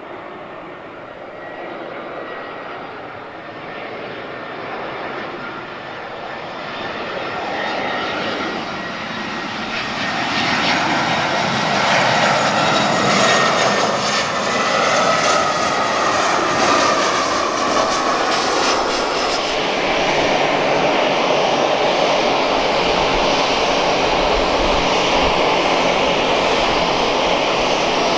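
Airbus A320's turbofan jet engines running, growing louder over about twelve seconds and then holding loud and steady. A whine in the engine noise slides down in pitch about halfway through.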